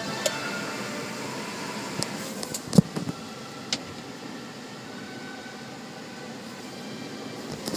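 Steady mechanical whirring hum with a few sharp knocks, the loudest about three seconds in.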